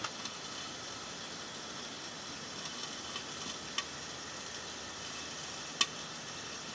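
Steady outdoor hiss with a few sharp clicks or snaps, the loudest about six seconds in.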